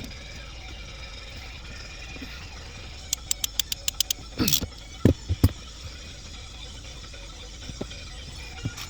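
A quick run of about eight sharp clicks, like a ratchet or tool mechanism, then a scrape and three knocks, over a low steady hum.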